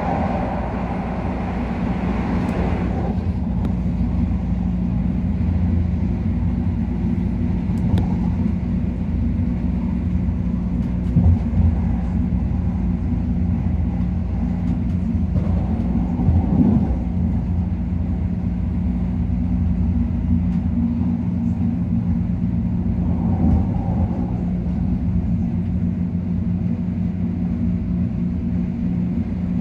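Inside an MTR Airport Express CAF electric train running at speed: a steady low rumble of wheels on track with a steady hum, and a few brief louder knocks along the way. A higher-pitched sound fades away in the first few seconds.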